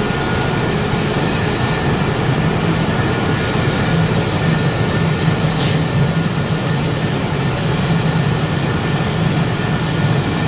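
Wood pellet production line machinery running with a loud, steady noise and a low hum underneath, with one short sharp tick about halfway through.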